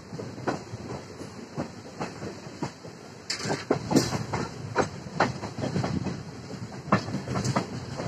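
Passenger train coaches running along the track, heard from an open coach doorway: a steady rumble with irregular sharp clacks of the wheels over rail joints. It grows louder and busier about three seconds in.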